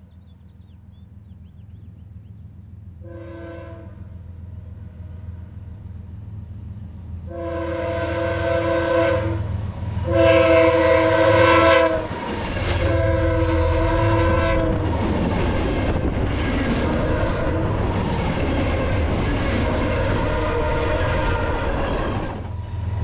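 BNSF diesel freight train approaching with a growing low rumble, its multi-chime air horn sounding a short blast and then three longer blasts. The locomotives then pass close by, followed by the steady roar and clatter of the train's cars going past.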